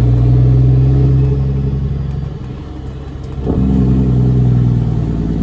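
Straight-piped Caterpillar C13 inline-six diesel in a Kenworth W900B dump truck pulling under load. It eases off a little past two seconds in, then comes back on strongly about a second later.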